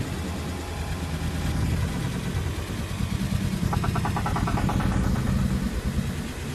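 A motor vehicle engine running with a steady low hum. About four seconds in there is a brief, rapid higher-pitched pulsing that lasts about a second.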